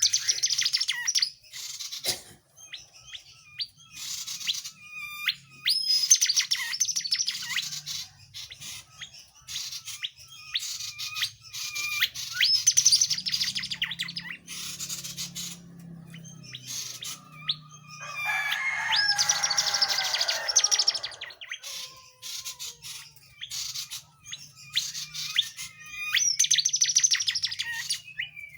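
Songbird known to Indonesian bird keepers as tledekan jati singing in repeated bursts of rapid high chirps and whistles, with a pause of a few seconds between phrases. One fuller, lower-reaching phrase comes about two-thirds of the way through.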